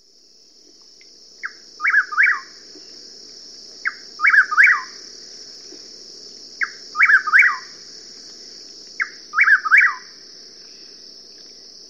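A songbird singing the same short phrase four times, about every two and a half seconds: one sharp note, then a quick run of two or three falling notes. A steady high-pitched hiss runs underneath.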